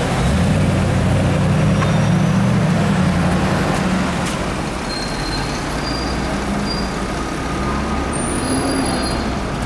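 Mercedes C63 AMG Black Series 6.2-litre V8 pulling away in traffic with a deep burble that fades after about four seconds. A steady low city-traffic rumble follows, with a few faint brief high squeaks.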